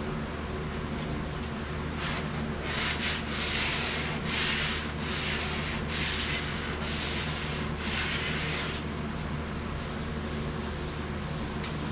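Hand sanding of a vehicle body panel along a body line: sandpaper rubbed in quick back-and-forth strokes, louder and more regular in the middle of the stretch, about one stroke a second. A steady low hum runs underneath.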